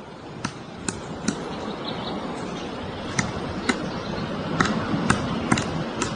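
Woodpecker pecking into tree wood: about ten single sharp taps, spaced irregularly half a second or more apart, over steady background noise.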